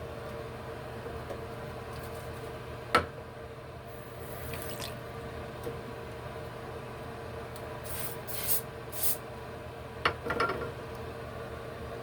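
Short hisses of a spray bottle, three in quick succession near the end and one earlier, with a couple of sharp clicks from handling the bottle or its cap, over a steady low hum.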